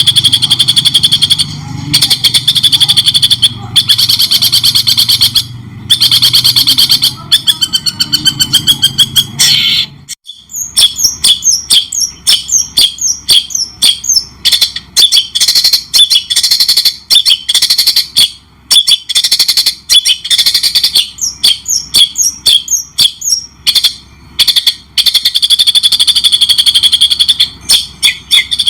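Loud songbird song from a masteran training recording: a dense, fast, high trill that cuts off abruptly about ten seconds in, followed by a long run of short, sharp, rapid chirps, and the fast trill returns near the end.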